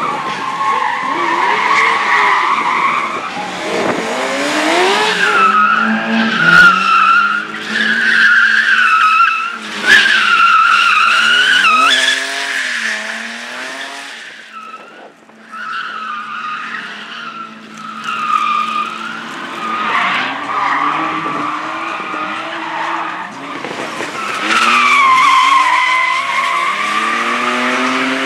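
Slalom race car driven hard through cones: the engine revs rise and fall with each gear and throttle change while the tyres squeal through the tight turns. It quietens about halfway through, then a car comes back loud with long tyre squeal near the end.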